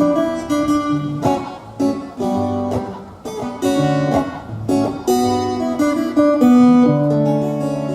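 Instrumental song introduction: acoustic guitar playing chords over low bass notes, the chords changing every half second or so.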